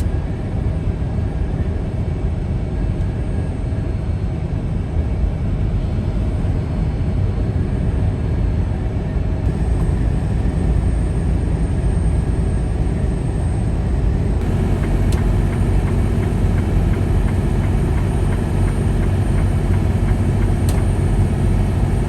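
Steady low rumble of a moving vehicle's road noise mixed with strong wind. The character of the noise shifts twice, about ten and fifteen seconds in.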